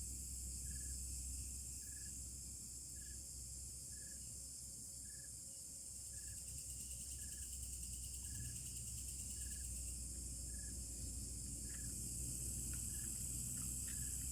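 Steady high-pitched chirring of an insect chorus, with a short call repeating about once a second. Underneath runs a low steady drone, which the uploader attributes to the engines of a palm-oil mill about 15 km away.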